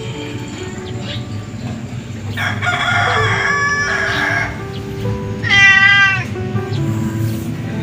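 Background music with animal calls over it: a pitched call lasting about two seconds near the middle, then a louder, wavering call about three seconds later.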